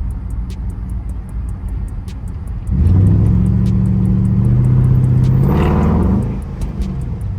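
Car engine idling, then revved up about three seconds in and held for about three seconds, its pitch climbing before it drops back to idle.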